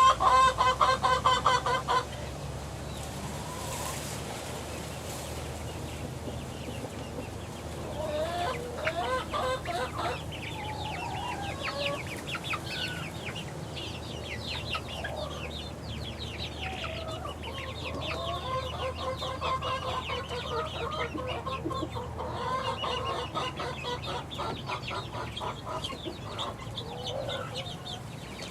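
Six-week-old chickens peeping and clucking, many short chirps overlapping. A loud run of repeated calls comes in the first two seconds, and the calls thicken again about eight seconds in and in the second half.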